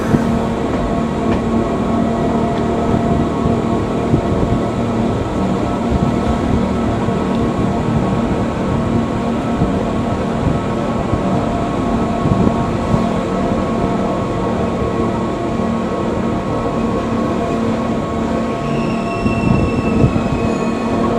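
Train running on the rails: a steady rumble with a constant hum. Near the end comes a brief high wheel squeal that falls slightly in pitch.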